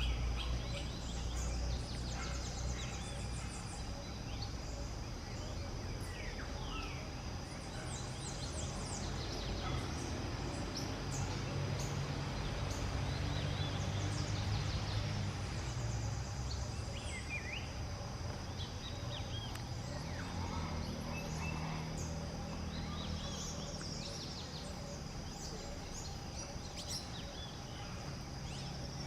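Outdoor natural ambience: a steady high-pitched insect drone runs throughout, with many short bird chirps scattered across it and a low hum underneath.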